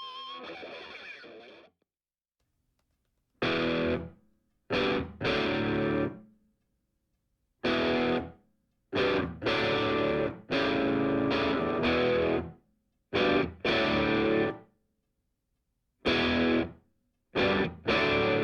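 Music: distorted electric guitar playing chords in short stop-start phrases that break off abruptly, with brief silences between them.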